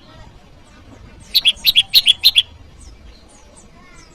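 Prenjak lumut calling: one rapid phrase of about eight sharp, high chirps in quick even succession about a second in, with faint chirps before and after it. This is the territorial call that challenges a rival.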